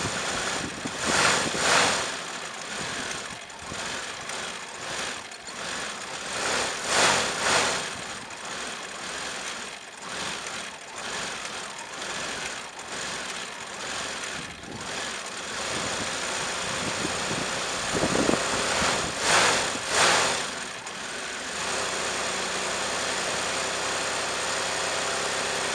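1990 Cadillac V8 running rough just after a hard cold start in freezing weather. It is revved several times: the engine note surges about a second in, again around seven seconds, and in a cluster between about 18 and 20 seconds.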